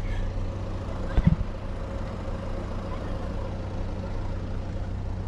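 A car engine idling steadily, heard from inside the cabin, with two quick knocks about a second in.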